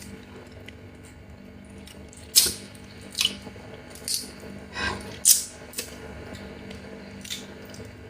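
Eating a Chinese mitten crab: a series of about seven short, sharp mouth and shell noises, irregularly spaced, over a steady low hum.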